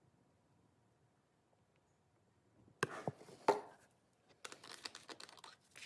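Three sharp knocks about three seconds in, followed by a quick run of clicks and rattles: a plastic oil bottle and funnel being handled before oil is poured into the engine.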